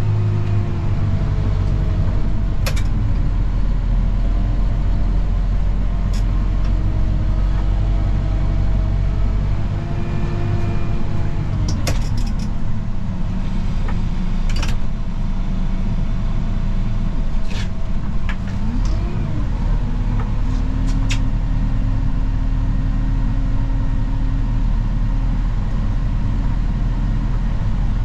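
A snow-plowing vehicle's engine running steadily under load, its pitch wavering a little. About six sharp knocks or clanks break in at irregular moments.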